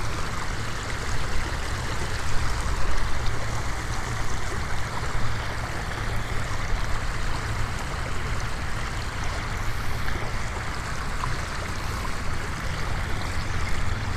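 Strong wind buffeting the microphone: a steady low rumble with a rushing hiss, rising and falling slightly in gusts.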